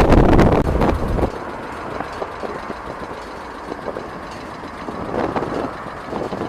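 Strong wind buffeting the microphone, dropping away abruptly about a second in to a lower steady rumble of airport noise with lighter gusts.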